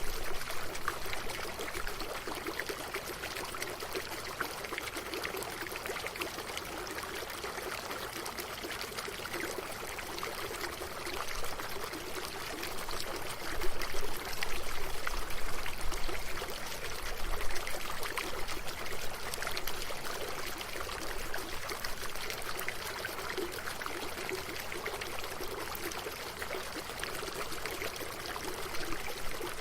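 Running water: a steady rush and splash, growing louder and more turbulent for a few seconds around the middle before settling back.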